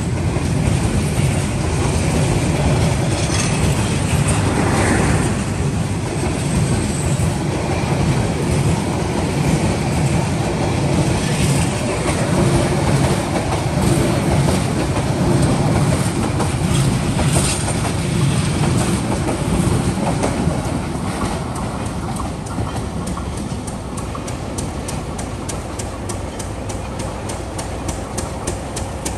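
Passenger coaches of an express train passing close at high speed: a loud, continuous rumble and clatter of wheels over the rails. About 21 seconds in it drops to a quieter, rapid, regular clicking.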